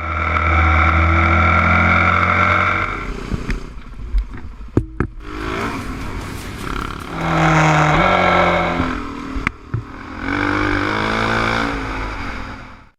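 Motorcycle engines revving and pulling away, rising and falling in three loud surges, with a few sharp clicks in between and a step up in pitch about eight seconds in.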